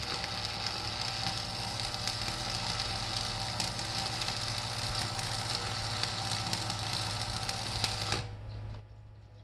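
Electric arc welding: the arc's steady crackling sizzle, which cuts off suddenly about eight seconds in, leaving a low steady hum.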